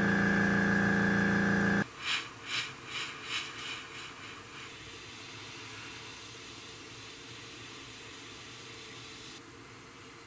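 Airbrush air compressor motor humming steadily, then cutting off abruptly about two seconds in. After that come a few short puffs of air from the airbrush and a steady faint hiss of it spraying paint.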